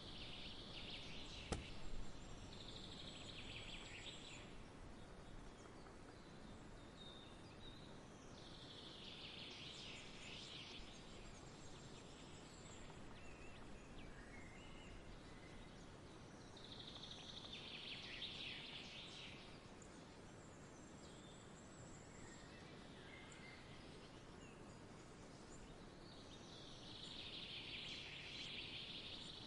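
Quiet outdoor nature ambience: a faint steady background hiss with short spells of birds chirping that come back about every eight to nine seconds. A single sharp click sounds about a second and a half in.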